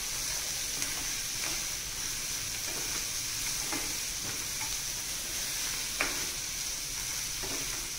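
Chopped onions, tomatoes and whole spices sizzling steadily in oil in a non-stick frying pan while being stirred, with a few light scrapes and taps of a nylon spoon against the pan, the clearest about six seconds in.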